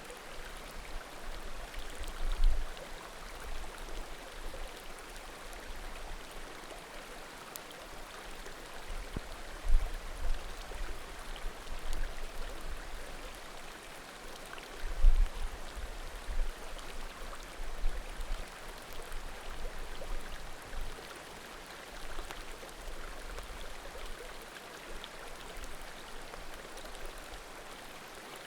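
Small mountain creek babbling steadily beside a wood bonfire, with occasional faint pops from the burning firewood. Brief low rumbles stand out about 2, 10 and 15 seconds in.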